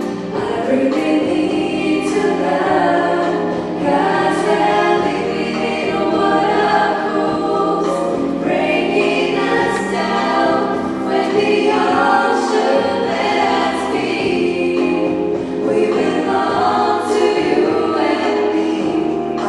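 Music: a children's vocal group singing together over an instrumental accompaniment with percussion accents.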